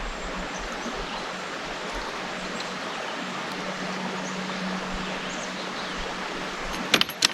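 Steady outdoor background noise, with a faint low hum for a second or two midway and a few sharp clicks near the end.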